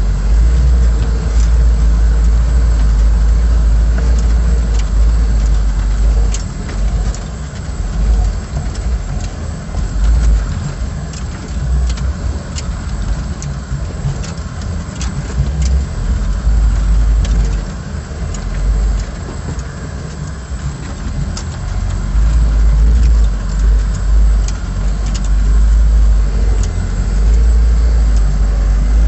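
A LuAZ off-roader's VAZ-21083 four-cylinder engine running under a heavy low rumble that swells and eases every few seconds. Scattered sharp clicks and knocks run through it.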